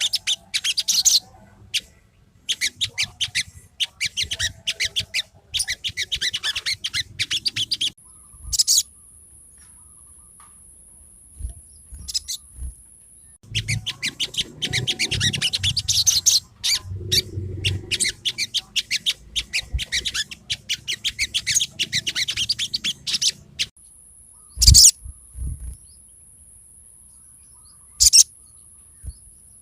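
Sogon song: bursts of rapid, high chattering trills, repeated in runs with pauses between them. A steady high-pitched whine sounds in the pauses, and a couple of sharp knocks come near the end.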